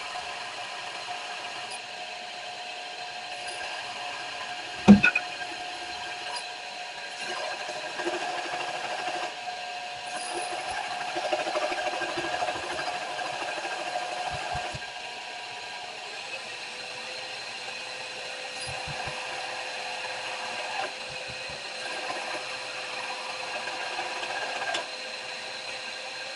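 Electric grinder running steadily with a whine of several fixed tones while a forged steel punch is ground against it, the grinding louder in stretches in the first half. A single sharp knock about five seconds in.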